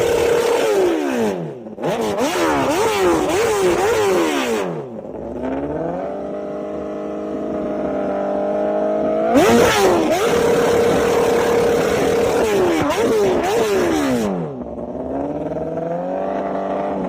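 Superbike engine revved hard through its exhaust. It is held at high revs, blipped up and down several times in quick succession, drops, then climbs slowly. About halfway through it jumps sharply to a held high rev, blips again and climbs once more.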